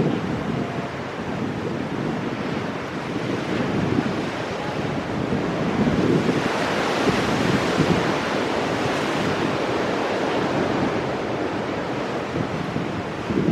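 Ocean waves breaking and washing over rocks, a steady surf roar that swells about halfway through, with wind buffeting the microphone.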